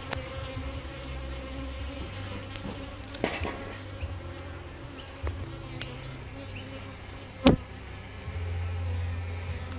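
Honey bees buzzing around an opened hive, with a sharp knock about seven and a half seconds in and a few lighter clicks.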